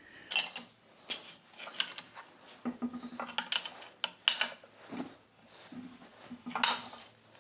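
Irregular metallic clicks and clanks from a 30-pound Kerrihard power hammer's drive and linkage as it is turned over by hand, about one knock a second, to check how level the freshly adjusted linkage sits.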